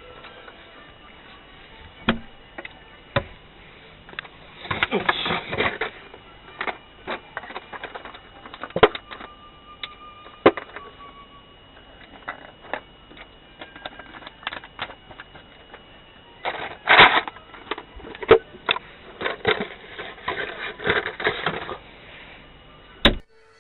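Irregular clicks, knocks and clatter of objects being handled, busiest about five seconds in and again from about seventeen to twenty-two seconds, over a faint steady high whine.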